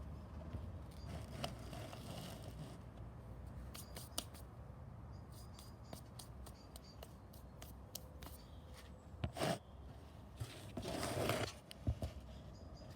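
Scattered light clicks and scrapes of small objects being handled, with a short rustle about nine seconds in and a longer, louder one of about a second shortly after.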